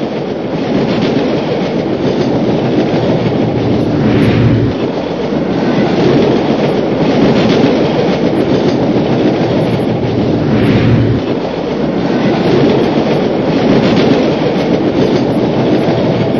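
Train running along the track: a loud, steady rumble with the clatter of wheels on the rails, swelling every few seconds.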